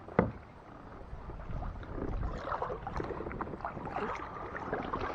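Handling and water sounds on a fishing kayak: one sharp knock about a quarter second in, then scattered small knocks and clicks with water moving against the hull.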